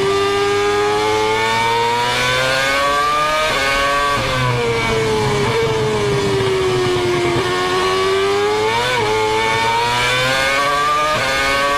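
Formula 1 car engine running at high revs, its pitch sagging and rising as the car brakes, shifts and accelerates, with a couple of quick jumps in pitch, over a steady rush of noise.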